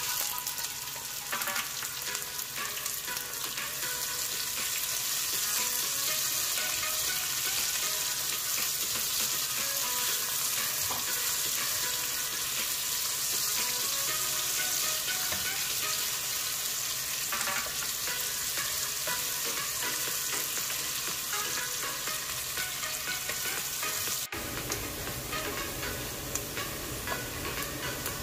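Food sizzling as it fries in a pan and is stirred, a steady dense hiss, with a sudden break near the end.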